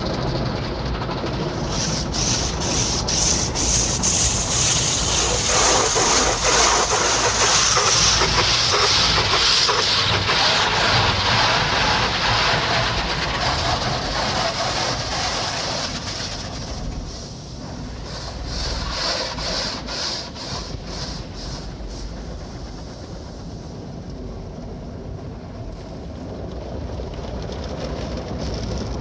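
Automatic car wash working over the car, heard from inside: a dense hiss of spray with rubbing and quick slaps against the body. It is loudest for about the first half, then eases to a duller rumble.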